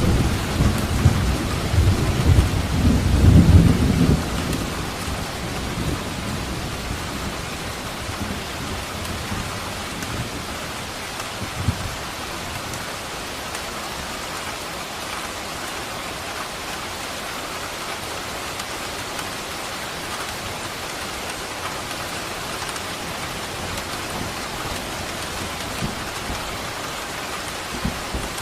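Steady rain falling during a thunderstorm. A low thunder rumble is loudest in the first four seconds and dies away, leaving an even rain hiss.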